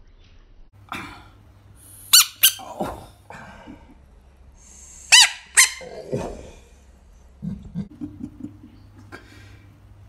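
Rubber squeaky toy ball squeezed: two pairs of short, high squeaks, about two seconds in and again about five seconds in, with softer squeaks and rustling between them.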